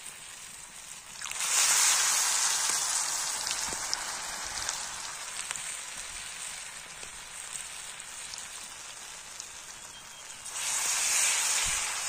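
Besan-battered potato lollipops frying in hot oil: the sizzle jumps up loudly about a second in as one goes into the oil, settles to a steady sizzle, then surges again near the end as another is added.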